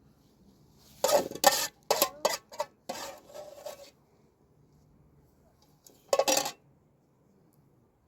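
Metal pots and utensils clattering: a quick run of knocks and clinks over about three seconds, then a second short clatter near the end.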